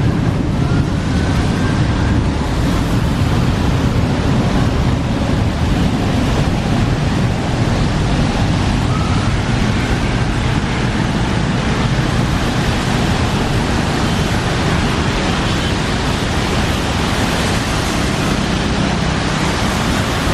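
Jet engines of Air Force One, the US presidential plane, running at takeoff power: a steady, loud rush of jet noise, with wind buffeting the microphone.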